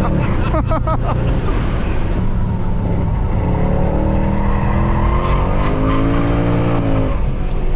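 Mercedes C63 AMG's 6.2-litre V8 under load, its exhaust opened up by secondary-cat and resonator deletes, heard from inside the cabin as the car slides. Tyres squeal in the middle, rising and falling in pitch over a few seconds.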